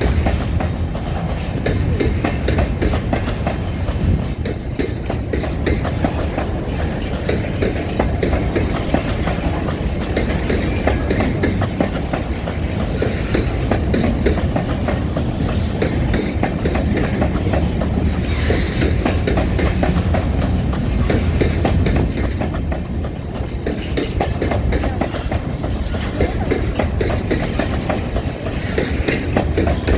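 Freight train rolling along the track, its wagon wheels clattering steadily over the rails with a continuous rumble.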